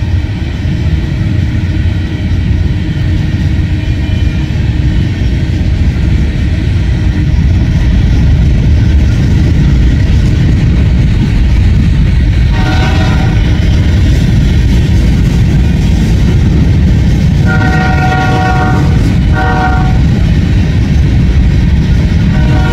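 Diesel freight train approaching and rolling past with a heavy rumble that grows louder over the first several seconds. The locomotive horn sounds a blast about halfway through, then a longer blast and a short one, and another begins near the end.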